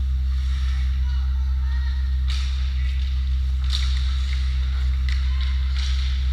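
Ice hockey game sound: a steady low hum with short sharp scrapes, typical of skate blades cutting the ice, about four times, and faint voices in the background.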